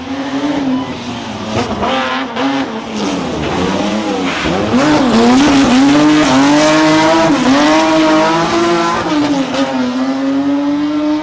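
Historic rally car engine driven hard, its pitch rising and dipping again and again as the throttle is lifted and reapplied. It grows louder about halfway through.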